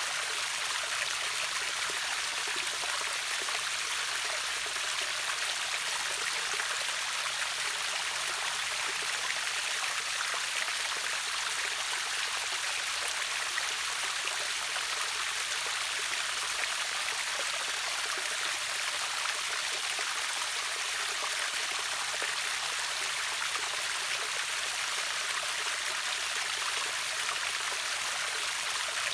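Rushing water of a river waterfall: a steady, even splashing hiss, bright and without much low rumble.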